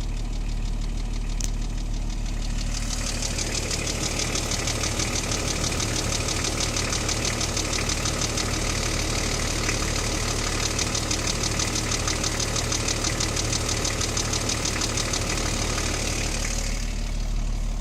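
BMW E34 525tds's 2.5-litre straight-six turbodiesel idling steadily, with a rapid, even ticking clatter that sets in about three seconds in and stops near the end. This ticking is the owner's unidentified noise.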